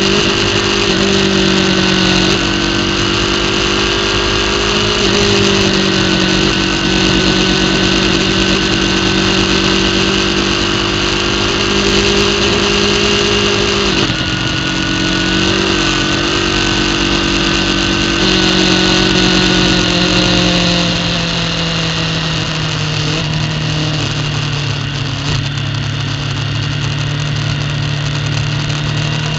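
Racing superbike engine heard from the on-board camera, running at steady revs with wind and road noise. The pitch steps down a couple of times and then sinks gradually near the end as the bike slows.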